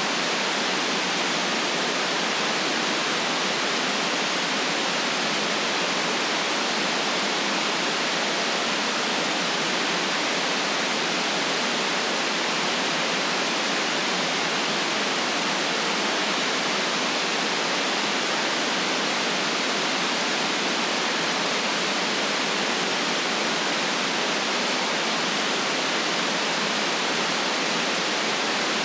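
Steady white noise: an even, unchanging hiss with no deep bass and no highest treble.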